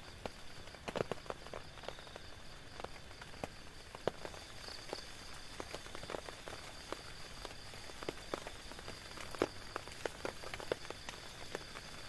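Rain drops pattering irregularly on a tent, single heavier drops ticking out sharply, over a steady high-pitched hiss.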